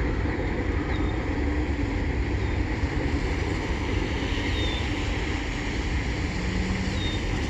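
Steady low rumble of a freight train rolling on along the track, mixed with wind noise on the phone's microphone. A few faint, short, high chirps sound over it.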